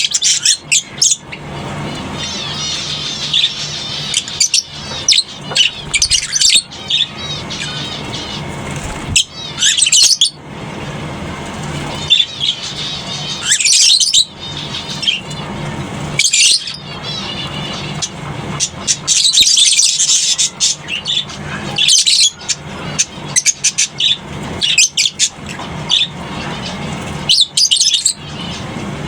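A colony of lovebirds chattering with sharp, high-pitched chirps and shrieks in irregular flurries, over a steady low hum.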